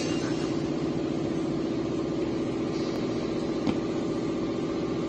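A steady, even machine hum with a low tone, like an electric appliance or small motor running.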